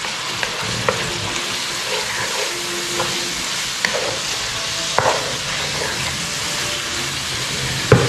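Strips of boiled pork stomach, kidney and beef liver sizzling steadily in a frying pan while being stirred with a wooden spatula. The spatula taps or scrapes the pan a few times.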